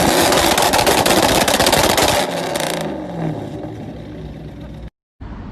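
Vehicle collision: loud scraping and clattering for about two seconds, dying away over the next second into lower road and vehicle noise.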